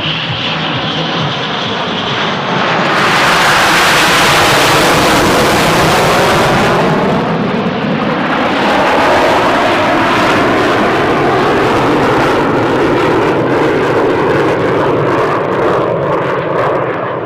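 Twin turbofans of an Aeronautica Militare T-346A jet trainer in a loud pass. The jet noise builds, peaks a few seconds in with a hiss spread high and wide, then rolls on with sweeps falling in pitch as the aircraft recedes.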